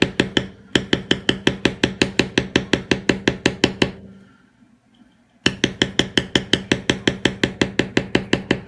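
Rapid, evenly spaced mallet strikes on a leather stamping tool, about seven taps a second, as the leather is tooled. The tapping stops for about a second and a half past the middle, then starts again.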